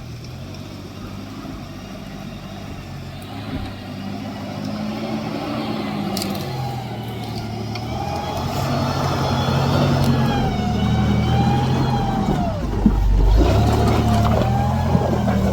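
Off-road truck engine revving up and down under load on a rough trail, growing louder as it works, with a heavy low thump near the end.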